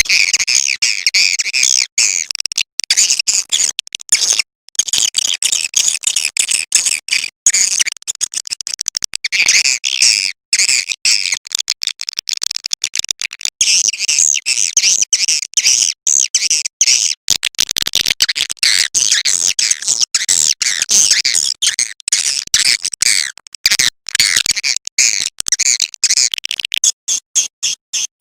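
Swiftlet call recording ('suara panggil'), the lure sound played to draw edible-nest swiftlets into a swiftlet house: a dense stream of shrill, overlapping twittering chirps, broken by many brief gaps.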